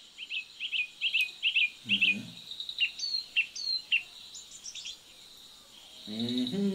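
Small birds chirping in quick, sharp, repeated calls over a faint steady high insect whine. A person's voice sounds briefly about two seconds in and again near the end.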